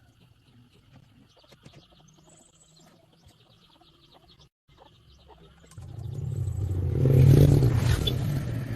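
A few faint clicks, then about six seconds in a vehicle engine's sound swells up, peaks and slowly fades, like a motor vehicle passing close by.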